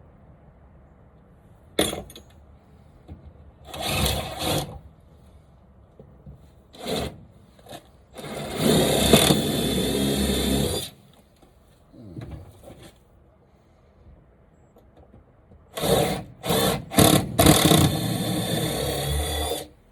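Power drill boring holes: short trigger bursts, then two runs of a few seconds each with a steady motor whine, the second started by several quick blips of the trigger.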